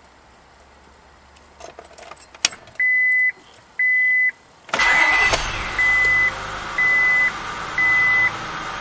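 A few key clicks, then a car's warning chime beeping six times, about once a second. About five seconds in, the 2000 Acura 3.2 TL's 3.2-litre V6 cranks briefly, catches, and settles into a steady idle with no foot on the gas: a clean start, now that the crank and cam position sensors behind its rough, misfiring starts have been replaced.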